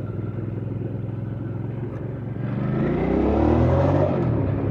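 Hyosung GV650 Aquila's V-twin engine running steadily at low revs, then revving up with rising pitch from about halfway through as the bike accelerates, the pitch dropping back near the end.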